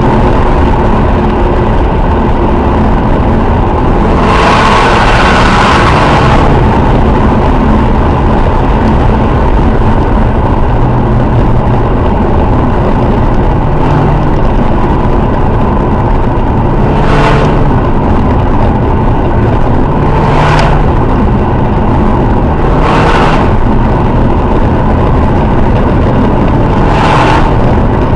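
A tuned BMW X1 2.0i's turbocharged four-cylinder engine running loud through an aftermarket downpipe and Magnaflow cat-back exhaust. It keeps up a steady exhaust note whose pitch shifts, with a longer surge about four seconds in and several short, sharp bursts in the second half.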